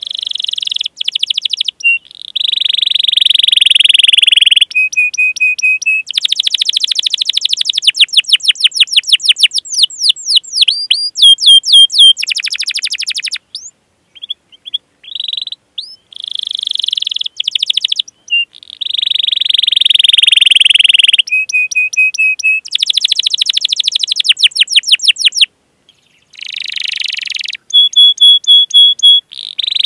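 Domestic canary singing a long, loud song. Fast rolling trills alternate with sustained buzzy notes and repeated short chirping calls, broken by a few brief pauses.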